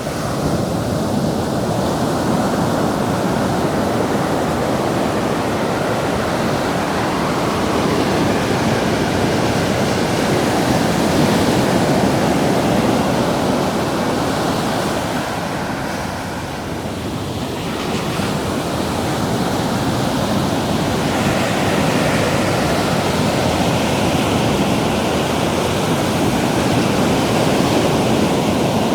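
Ocean surf breaking and washing up the beach in a continuous rush, easing off briefly a little past halfway before the next waves build again.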